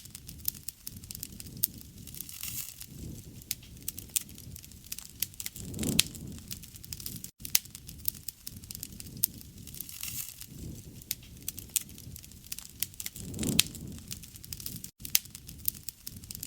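Wood fire burning, with frequent sharp crackles and pops over a steady low noise from the flames that swells louder a few times.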